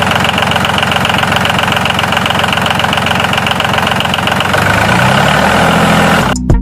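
Tractor engine running with a fast, even knocking beat. A lower steady hum comes in near the end before the sound cuts off suddenly.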